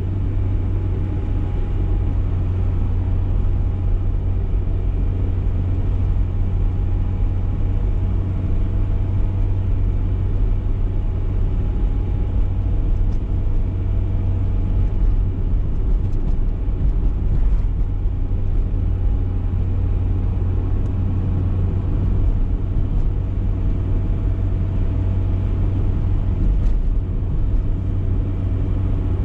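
BMW E30 318is's 1.8-litre four-cylinder engine running at a steady cruise, a constant low drone with road rumble and no big changes in revs.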